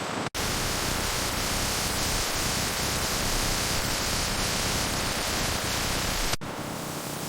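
Steady hissing noise with no tone or rhythm in it. It cuts out for an instant about a third of a second in, and drops a little at another abrupt cut about six seconds in.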